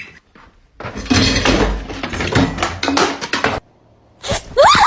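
A loud clattering crash of objects falling and breaking, lasting about three seconds. Short, rising squeaky cries begin near the end.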